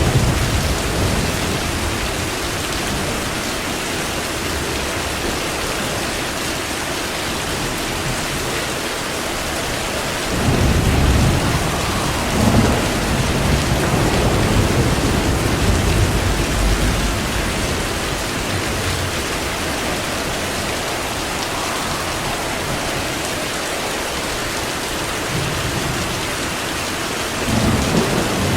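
Steady heavy rain with rolling thunder: a low rumble at the start, a longer one building about ten seconds in and rolling on for several seconds, and another near the end.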